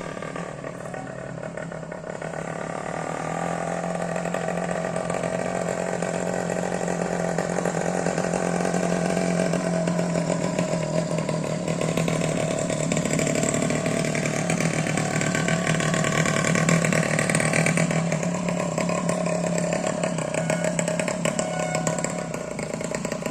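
Small motorcycle engine held at high, steady revs, growing somewhat louder over the first two-thirds, then stopping suddenly.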